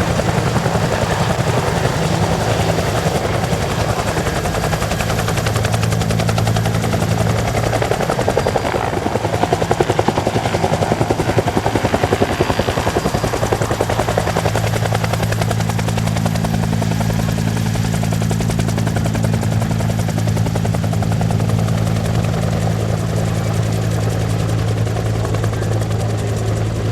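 Bell AH-1S Cobra attack helicopter in flight: its two-bladed main rotor beats rapidly over a steady turbine-engine hum. Between about 8 and 14 seconds in the hum fades and the rotor noise swells slightly louder, then the steady hum returns.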